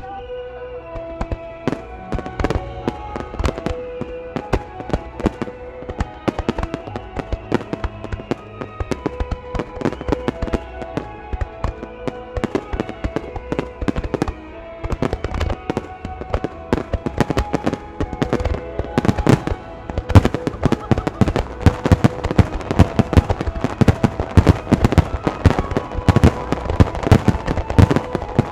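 Fireworks going off in rapid succession, many sharp bangs and pops, with music playing throughout. The bursts get denser and louder about two-thirds of the way through.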